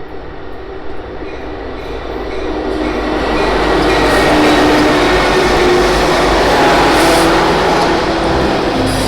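CN freight train passing close by. It grows steadily louder over the first few seconds as it approaches, then holds as a loud, steady wash of engine and wheel noise as it goes by.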